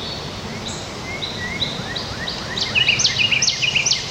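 Carolina wren singing its repeated three-note 'cheeseburger' phrase in the reversed note order. Quick rising notes come in the middle, and loud, repeated phrases come near the end, over steady outdoor background noise.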